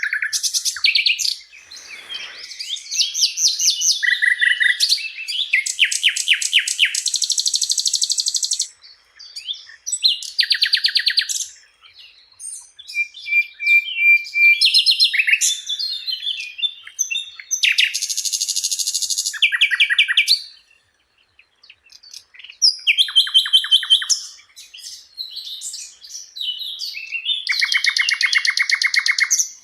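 Sikatan londo (a flycatcher) singing a varied, high-pitched song: phrases of rapid repeated notes and trills mixed with chirps, separated by short pauses.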